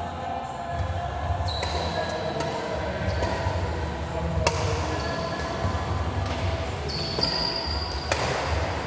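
Badminton play on an indoor hall court: a few sharp racket-on-shuttle hits, the clearest about four and a half seconds in and near the end, with high sneaker squeaks on the court floor between them over a steady low hum.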